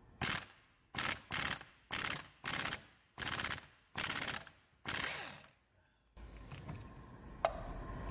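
Impact wrench hammering in about eight short bursts on a seized injector clamp bolt, trying to break it loose.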